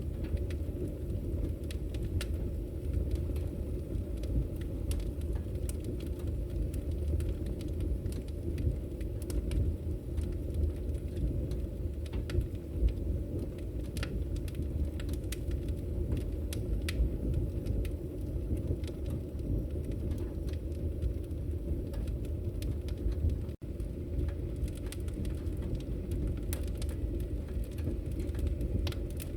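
Wood fire burning in a fireplace: a steady low rumble of flames with frequent sharp crackles and pops from the burning logs. The sound briefly cuts out once about two-thirds of the way through.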